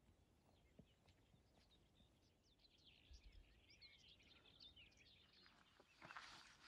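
Faint birdsong: many short, quick chirps from small birds, over a low wind rumble. Footsteps on a dirt path start near the end.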